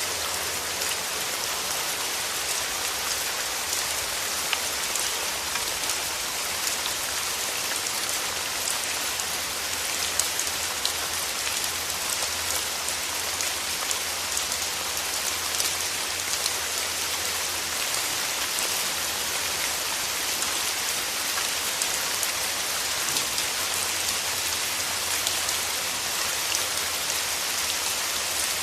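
Steady rain falling through forest trees: a constant hiss of many fine drops pattering on leaves, with scattered sharper drip ticks.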